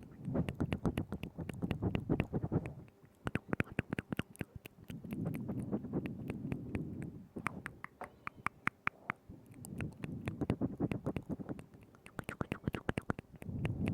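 Close-miked ASMR mouth sounds: rapid wet tongue clicks and lip smacks that come in dense bursts of about two seconds, with sparser clicking in between.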